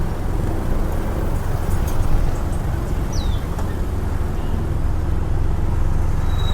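Town street traffic: a steady rumble of passing cars and motorbikes. A short, high falling chirp is heard twice.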